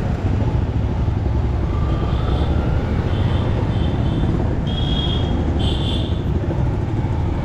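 Steady low rumble of a motorcycle riding in city traffic. From about two seconds in there are about five short, high-pitched beeps, likely vehicle horns, and the last two are the loudest.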